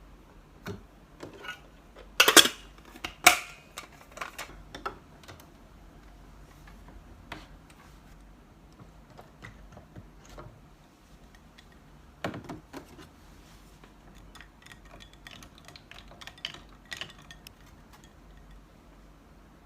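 Intermittent clinks, clicks and knocks of kitchenware being handled and set down on a counter, with the loudest clatters about two and three seconds in and another about twelve seconds in.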